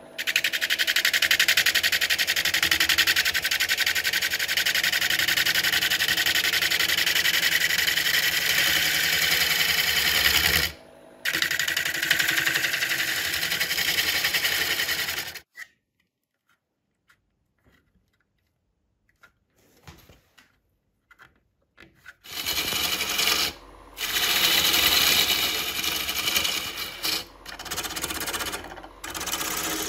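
Wood lathe turning a burl, a tool cutting the spinning wood with a fast, even rattle. The cutting breaks off briefly about eleven seconds in, stops for several seconds just past the middle, then starts again in shorter stretches.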